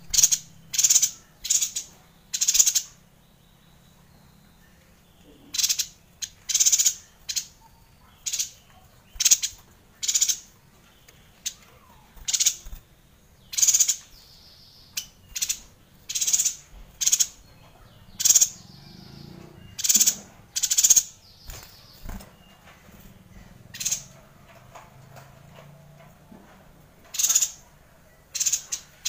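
Caged yuhina calling: a long series of short, high notes, roughly one a second, with a couple of brief pauses.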